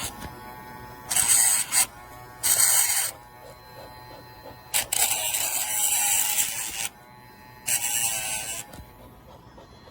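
Casfuy electric dog nail grinder running with a steady whine, with four louder grinding bursts of about one to two seconds each as the spinning grinder is pressed against the dog's nail.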